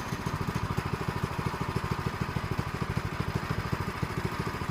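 Small gasoline engine of a sawmill running steadily at idle, with a fast, even pulsing exhaust beat.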